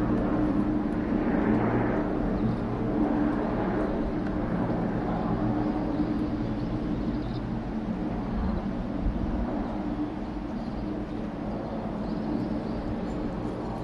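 Aircraft engine drone overhead, a steady hum that slowly fades as it moves away.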